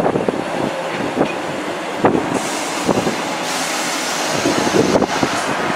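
ScotRail Class 158 diesel multiple unit running past close by, with a steady rumble and its wheels knocking over rail joints about once a second. A brief higher hiss comes in around the middle.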